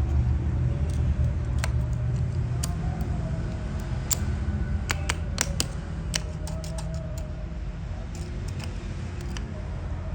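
Hand tools clinking and clicking on metal engine parts in short, irregular strikes, over a steady low rumble that slowly fades.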